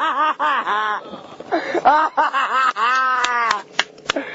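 A person laughing excitedly in quick, high-pitched bursts of 'ha-ha-ha', then a longer drawn-out cry, with a few sharp clicks near the end.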